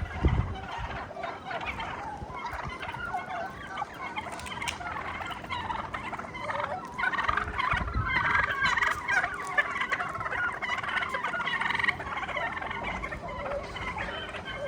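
Domestic fowl calling, a busy, overlapping chatter of several birds that grows louder from about seven seconds in, with a low thump right at the start.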